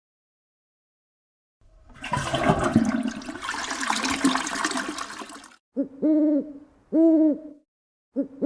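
A rushing, water-like noise for about four seconds, followed by a series of short hooting calls, each rising and falling in pitch, about one a second.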